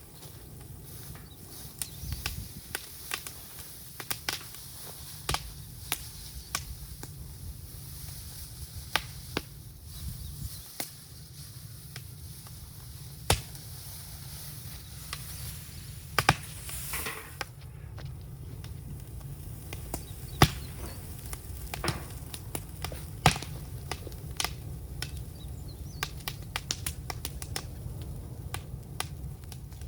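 Burning bamboo crackling in an open fire, with irregular small clicks over a steady low rumble and a few sharp, loud pops scattered through.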